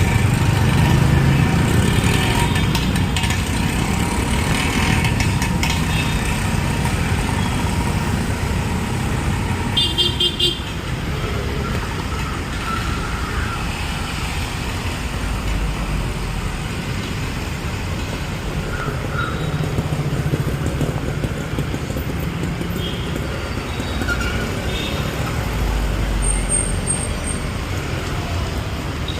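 Busy city street traffic: cars and motorbikes running and passing in a steady rumble, with a short high-pitched horn beep about ten seconds in.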